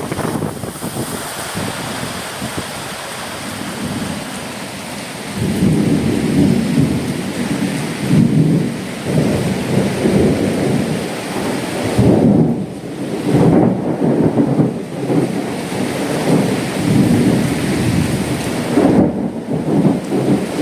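Cyclone storm: heavy rain hissing steadily. From about five seconds in, strong wind gusts buffet the microphone with a deep rumble that swells and fades in repeated surges.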